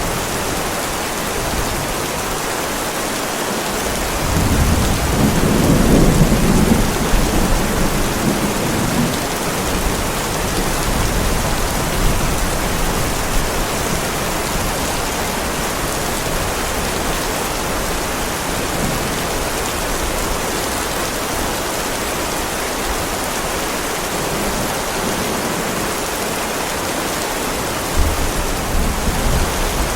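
Heavy rain falling steadily on a driveway, with a low roll of thunder rising about four seconds in and fading over several seconds, and a second, sudden low rumble near the end.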